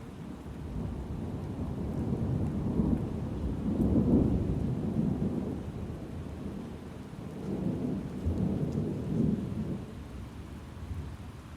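Rolling thunder over steady rain: a low rumble builds up, peaks, eases off, swells a second time and fades away near the end.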